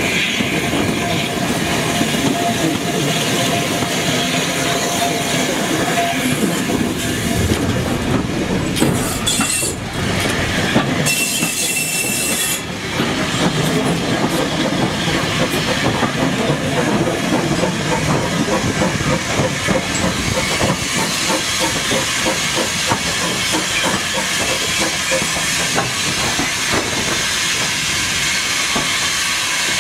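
Steam-hauled heritage train running, heard from an open coach window: the steady rumble and rattle of carriage wheels on the track, with wind on the microphone. A thin steady squeal from the wheels on a curve runs for the first several seconds.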